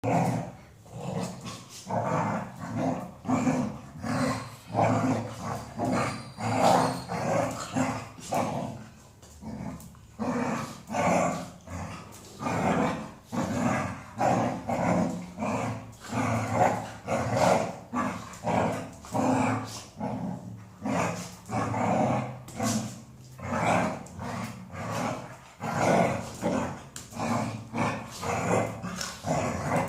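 Golden retriever vocalizing on and on in short growly woofs and grumbles, about one or two a second, the playful noise-making of a talkative dog.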